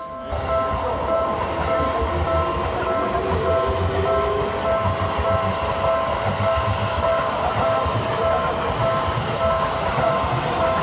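Seibu Ikebukuro Line train passing over a level crossing: a steady rumble with wheel clatter that comes up loudly just after the start, while the crossing alarm rings on with steady repeated tones.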